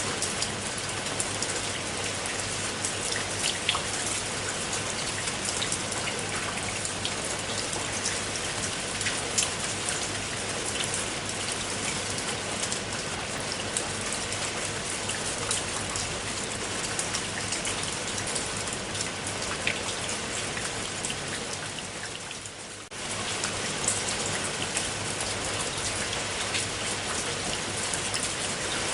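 Steady rain, with many individual drops striking distinctly over a dense hiss. About three-quarters of the way through it fades briefly and then cuts back in abruptly.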